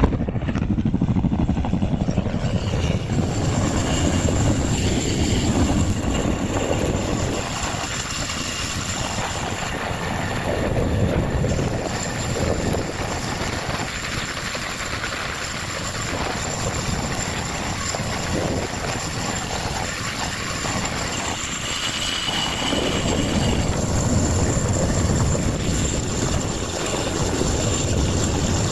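Helicopter rotor and engine running loud and steady as it flies back overhead, with a thin high whine over the rotor noise.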